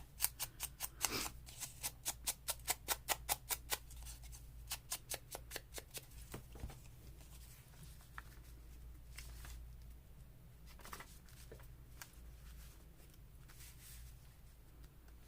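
Ink pad dabbed against the edges of a piece of paper: a quick, even run of taps, about five a second, for the first five seconds or so, then fewer, softer taps.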